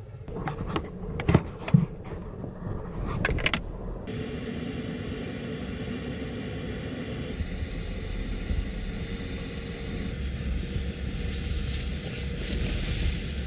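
Several sharp knocks and clunks in the first few seconds, then the steady low rumble of a vehicle running, with a hiss that grows louder near the end.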